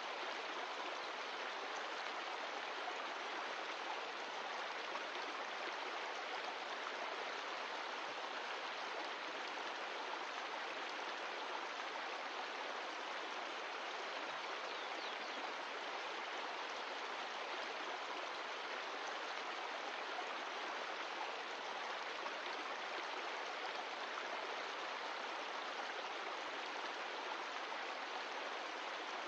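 Mountain stream of glacial meltwater rushing steadily over rocks, a constant even rush of water.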